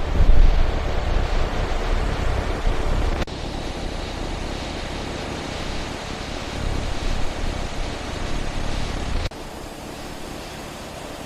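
Fighter jet roar, a steady noise with no tone to it, in clips cut together: a heavy rumble for the first three seconds, then a thinner, hissier roar that drops off abruptly at about nine seconds into a quieter hiss.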